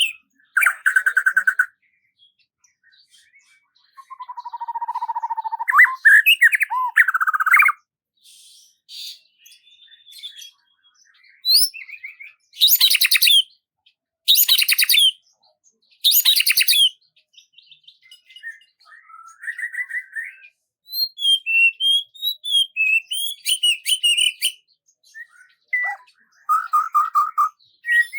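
Songbirds singing a series of varied phrases of chirps, trills and whistled notes, with short pauses between them. Near the middle come three loud, buzzy phrases about two seconds apart.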